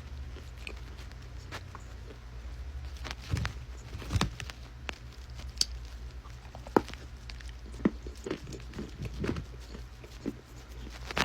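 Dry edible clay being bitten and chewed close to the microphone: irregular crisp crunches and clicks over a steady low hum.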